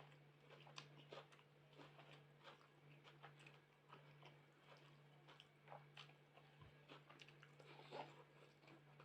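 Faint close-up mouth sounds of a person eating: wet chewing, lip smacks and small clicks at an irregular pace, over a steady low hum.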